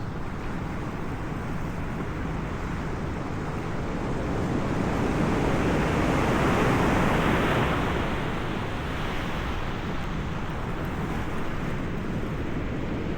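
Sea surf washing in as a steady rush, swelling to a peak about halfway through and then easing off.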